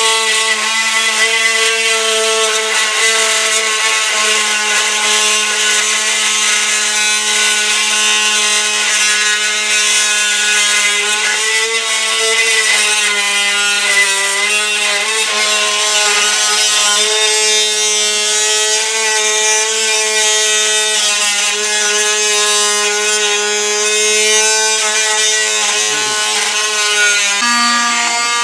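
Handheld power tool running steadily and cutting, a constant whine with a high hiss that dips slightly in pitch now and then under load, stopping abruptly at the end.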